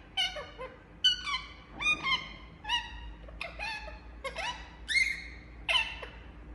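Pet parrot calling: a series of short, sharp chirping calls, about one or two a second, each bending in pitch.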